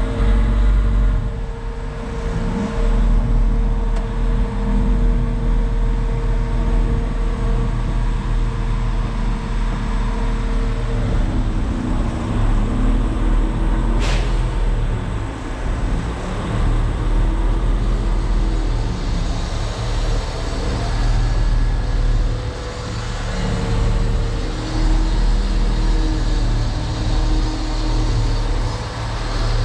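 Concrete mixer truck's diesel engine running at low speed, a steady low rumble, with a steady whine that stops about a third of the way through and a single sharp click about halfway.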